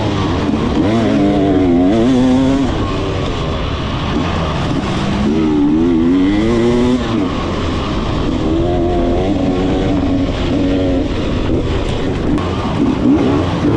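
Motocross dirt bike engine revving up and down repeatedly as it is ridden hard, its pitch climbing and dropping every few seconds, over a steady rush of wind noise.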